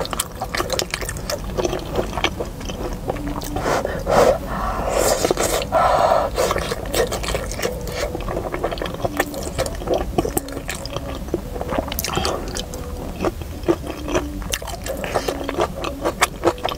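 Close-miked eating sounds: wet chewing and mouth smacks on a mouthful of stir-fried mianfeizi, with many short clicks and scrapes of chopsticks in a plastic takeout bowl. A louder, longer wet noise comes about four to six seconds in.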